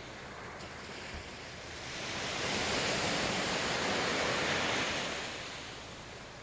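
Sea waves breaking on the shore: the surf swells up about two seconds in, holds for a few seconds, then washes back and fades near the end.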